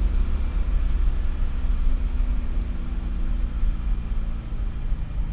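Car engine running at a steady pitch over a continuous low rumble.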